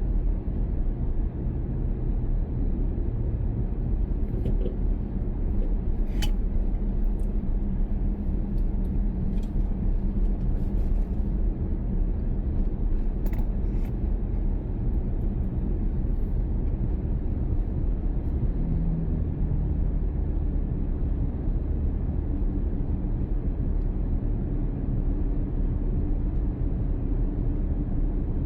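Steady low rumble of a car being driven: engine and road noise heard from the car, with a couple of faint clicks.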